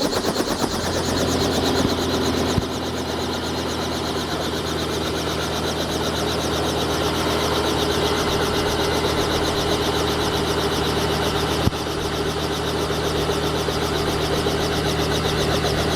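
Helicopter running on the ground with its rotor turning: a steady engine and rotor sound that holds level throughout.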